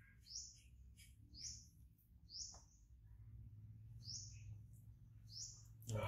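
Faint short, high chirps of a small bird, repeated about once a second, over a low steady hum.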